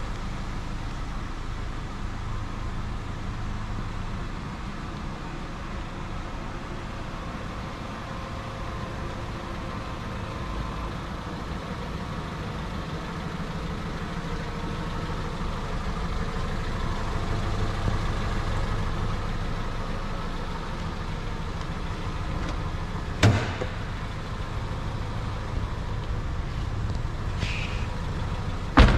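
Toyota MR2 Roadster's 1.8-litre four-cylinder engine idling steadily, with a sharp clack about 23 seconds in and another near the end.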